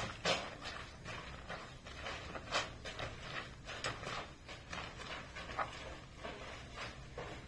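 Carpet being worked by hand with a cleaning tool: a run of short, uneven strokes, about two or three a second, some louder than others.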